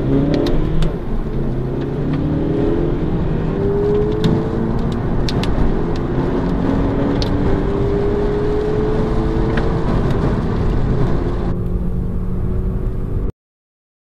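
Volkswagen Golf 6 engines accelerating hard from a standstill, heard from inside the cabin. The engine pitch climbs in long rises and drops back at each gear change. The sound cuts off suddenly near the end.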